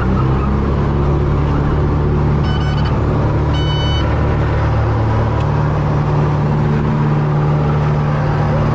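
Loud, steady low engine drone, with two short high beeps about three seconds in, a second apart.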